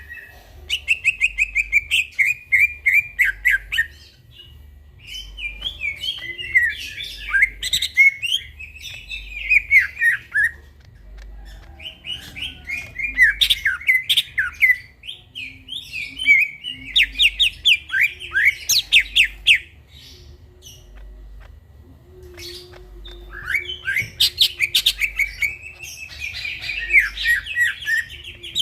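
Greater green leafbird (cucak ijo) singing: phrases of fast, chattering trills and twitters, each a few seconds long, with short pauses between them.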